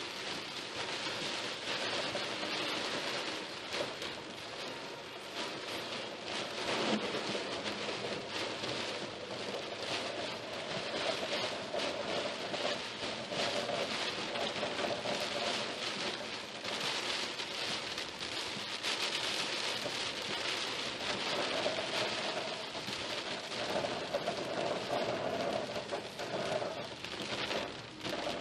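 Heavy rain pelting a car's windshield and roof while driving, a dense steady patter of countless drop hits.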